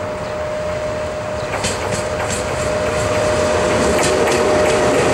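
EP1M electric locomotive hauling a passenger train as it approaches, its running noise growing steadily louder. A steady tone runs through it, and sharp clicks from the wheels come in about a second and a half in.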